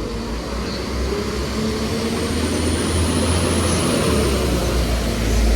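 Two coupled Class 197 diesel multiple units pulling out of the platform, their diesel engines running under power with a steady low rumble that grows louder. A faint high whine rises and falls midway through.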